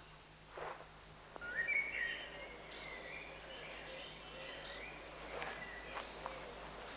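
Small birds singing, a warbling song with chirps over a steady outdoor background hiss, starting about a second and a half in.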